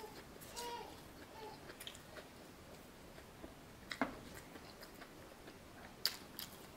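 A person chewing a mouthful of fried chicken close to the microphone, with soft wet mouth noises and small crackles. A brief hummed vocal sound comes near the start, and two sharp clicks stand out about four and six seconds in.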